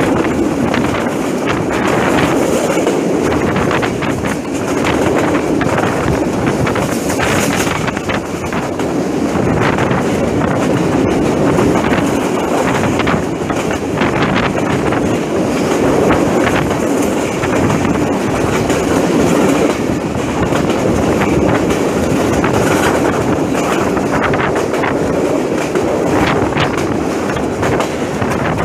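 Passenger train carriage running along the track, its steel wheels clattering continuously on the rails, heard from the open carriage window.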